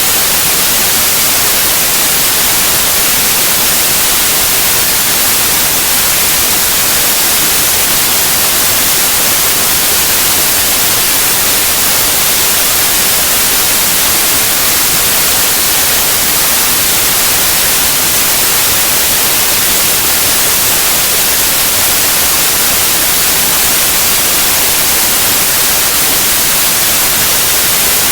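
Steady, loud white noise: an even hiss across all pitches, strongest in the treble, unchanging throughout.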